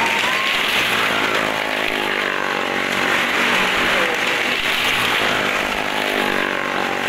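Motorcycle and car engines running hard as they circle the vertical wooden wall of a well-of-death drum, their pitch wavering up and down.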